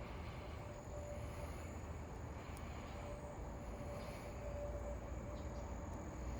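Evening outdoor ambience dominated by a steady high-pitched insect trill, over a low rumble of wind on the microphone.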